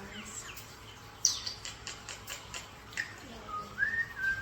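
Pet birds calling: a sharp high squeak about a second in, then a quick run of clicks, then a short whistle that rises and holds near the end.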